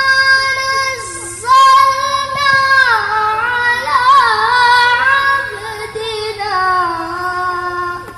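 A high voice chanting Qur'an in the melodic tilawah style, holding long, ornamented notes that slide up and down between pitches, with a quick warbling trill midway, before the phrase fades out at the end.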